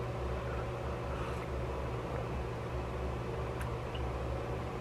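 Steady low background hum with a faint hiss of room noise.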